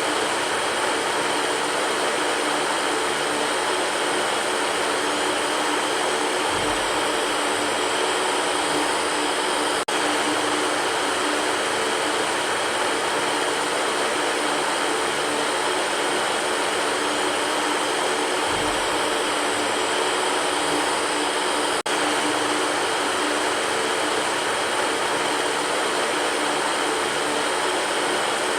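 Electric fan running steadily: an even rushing hiss with a faint hum underneath. It has two brief dropouts about twelve seconds apart and a faint low thump twice.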